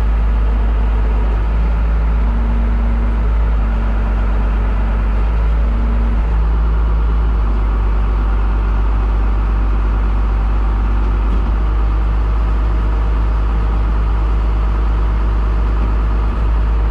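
Komatsu bulldozer's diesel engine running steadily, a loud, even low rumble, with a faint higher hum coming and going in the first few seconds.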